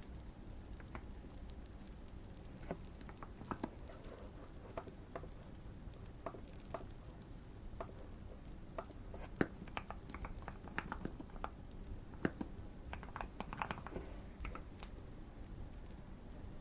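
Typing on a modded Keychron Q1 mechanical keyboard: irregular keystrokes, some in quick runs and others spaced out, over a faint steady fireplace crackle ambience.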